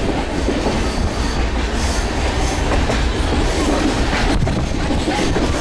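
Passenger train running, heard from on board: a steady rumble and rattle of the carriage with wheels clattering over the rail joints.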